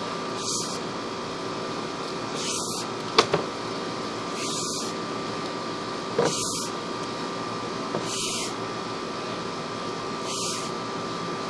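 Steady hum and hiss of a sewer inspection camera rig with a faint steady tone. A hiss swells about every two seconds, and there are two sharp knocks, about three and six seconds in.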